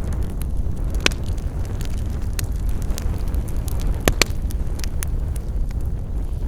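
Campfire burning, a steady low rumble of flame with irregular sharp crackles and pops of burning wood, the loudest about a second in and a pair just after four seconds in.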